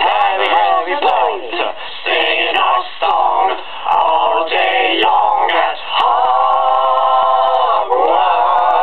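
Layered, multitracked comic voices singing a rhythmic a cappella chant, with a long held chord about six seconds in that cuts off sharply at the end.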